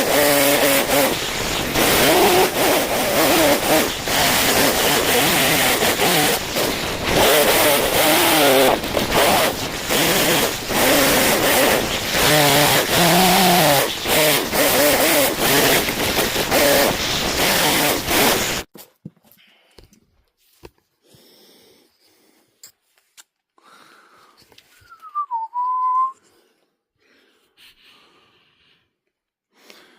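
Chainsaw running and cutting into wood, its engine pitch wavering up and down as it is revved. It cuts off suddenly about two-thirds of the way through; after that it is quiet apart from a short whistled note that dips and rises.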